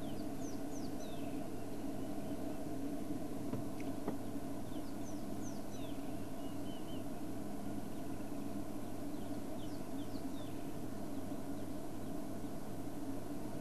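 Faint wild bird chirps and short whistles coming in a few scattered bursts, over a steady low hum.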